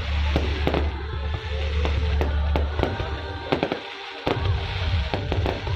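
Fireworks display: an irregular run of bangs and crackles, over music with a heavy steady bass that drops out briefly about four seconds in.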